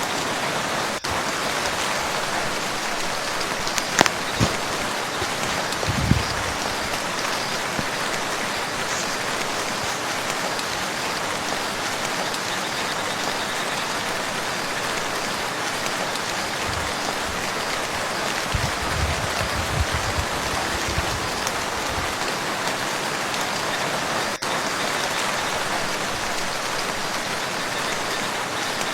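Steady rain falling on a lake, a dense even hiss, with a sharp tick about four seconds in and a few low thumps around six seconds and again near twenty seconds.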